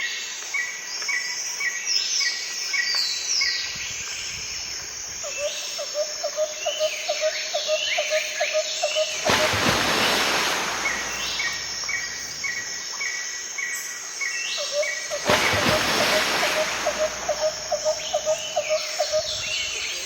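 Outdoor nature ambience: several birds chirping in quick runs of short repeated notes. Two bursts of rushing noise, each about a second long, come about nine and fifteen seconds in.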